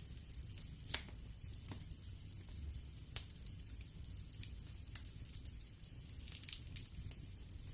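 Wood fire crackling in a fireplace: irregular small pops and snaps, with two louder pops about a second in and about three seconds in, over a low steady rumble of the flames.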